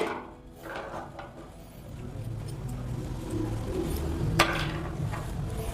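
Small hard parts being handled on a workbench: a few clicks and light clinks, a low rumble of handling noise from about two seconds in, and one sharp click a little past four seconds.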